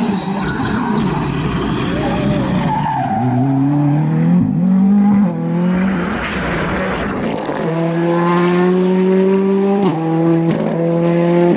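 Ford Fiesta R5 rally car's 1.6-litre turbocharged four-cylinder engine at full throttle on a stage, climbing in pitch through the gears with tyre noise, then held at a steady high pitch with two quick breaks near the end as the driver shifts or lifts.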